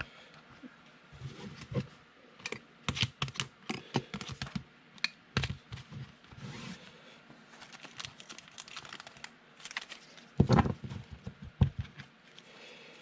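Trading cards and plastic card sleeves being handled: a run of light clicks, taps and rustles, with a heavier thump about ten and a half seconds in.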